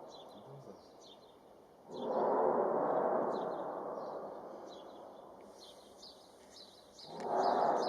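An unexplained deep droning, gong-like sound in the sky, heard twice: each time it swells up quickly and fades away slowly over several seconds. Small birds chirp throughout.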